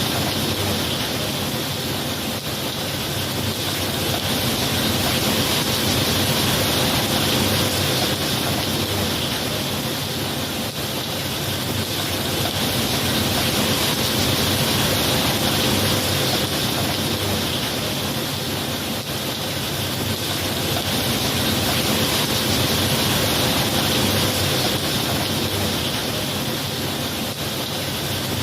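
Heavy rain falling in a steady hiss, slowly swelling and easing every several seconds.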